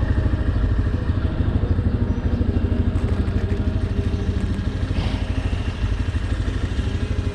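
Motorcycle engine running steadily at idle, a fast, even pulsing throb.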